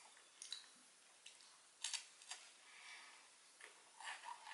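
Faint crunching and mouth clicks of someone chewing a dry, crumbly MRE cracker with cheese spread: a few scattered sharp ticks over near silence.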